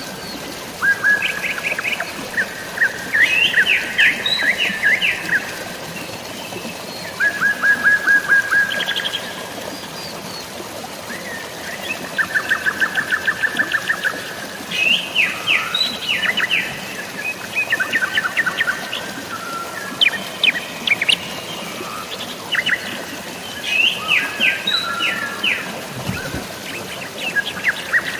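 Birds chirping in quick runs of repeated notes, many calls one after another, over a steady hiss of drizzling rain and flowing water.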